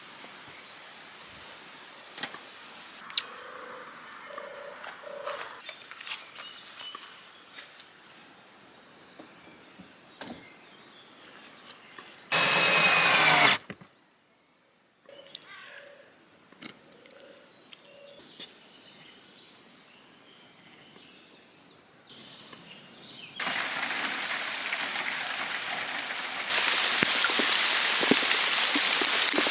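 Insect trilling in one steady high-pitched tone, pulsing faintly in places, with scattered light knocks. About twelve seconds in there is a loud one-second rushing burst. From about three-quarters of the way through, a steady hiss takes over and grows louder near the end.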